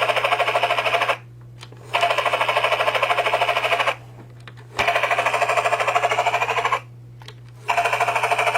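Toy Dinoco helicopter's helicopter sound, a rapid chopping rotor clatter. It plays in bursts of about two seconds separated by short pauses, each burst set off by a press of the toy's sound button.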